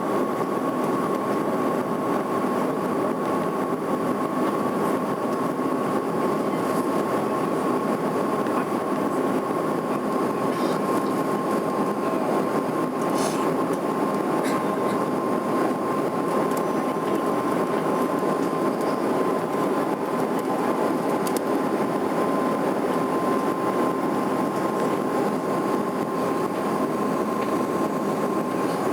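Airliner cabin noise in flight: an even rush of engine and air noise at a constant level, with a steady high tone over it.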